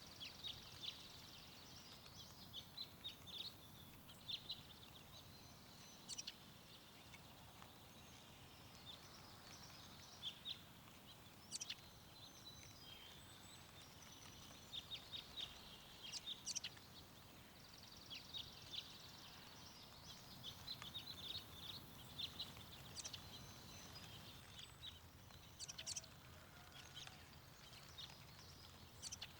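Small songbirds chirping in scattered clusters of quick high calls every few seconds, over a faint low rush of wind.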